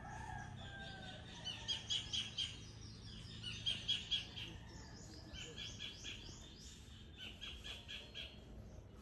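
Wild birds calling: runs of short, high chirps, several quick notes at a time, repeated again and again.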